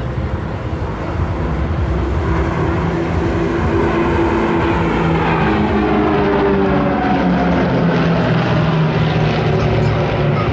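Propeller engines of aerobatic display aircraft flying over, a loud steady drone whose pitch slides up and down as the planes manoeuvre and pass.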